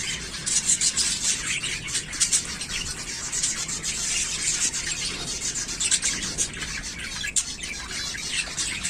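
Zebra finches chirping, a dense run of many short, overlapping high calls.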